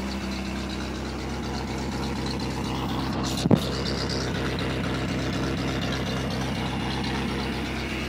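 1984 C4 Corvette's V8, a fresh motor with a hot cam, idling steadily through its stock exhaust. One sharp knock about three and a half seconds in.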